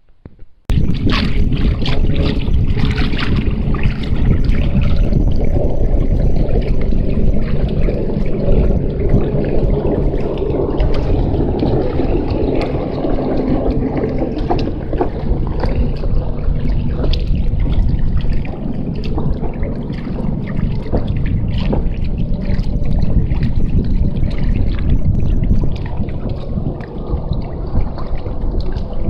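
Water washing and splashing along the hull of a folding kayak under sail, over a heavy steady rumble of wind. It starts abruptly about a second in and keeps on with scattered small splashes.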